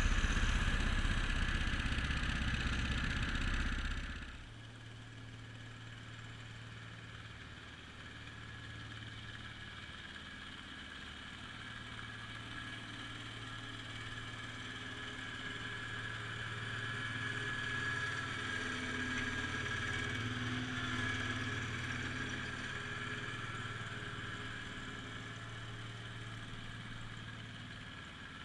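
International Harvester Cub Cadet 147 garden tractor's single-cylinder engine running. It is loud for about four seconds, drops suddenly to a quieter steady running, and rises a little past the middle before easing off again.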